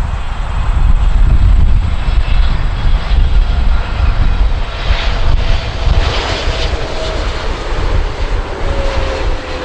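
Airliner's engines passing close by: a loud low rumble with a thin whine that slowly falls in pitch through the second half as the aircraft goes past.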